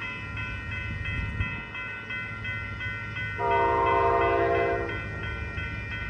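Amtrak P42 diesel locomotive's horn sounding one blast of about a second and a half, near the middle. Under it runs a steady electronic ringing that repeats about three times a second, along with the low rumble of the passing train.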